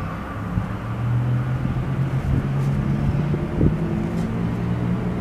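Low steady rumble and hum of an electric passenger train just past, with a single knock about three and a half seconds in.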